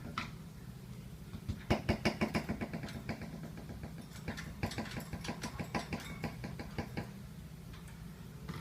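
Lovebird chattering in a rapid run of sharp 'kek' notes, its ngekek song, starting about one and a half seconds in and going on for about five seconds, over a steady low hum.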